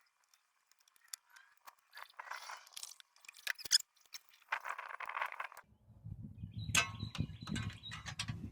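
Scattered clicks, clinks and short scrapes of hands and tools working on parts in a car's engine bay during an alternator removal. A low rough rumble joins about six seconds in.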